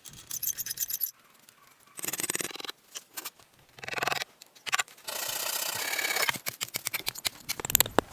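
Several bursts of scraping, each from under a second to over a second long, with scattered clicks and knocks between them.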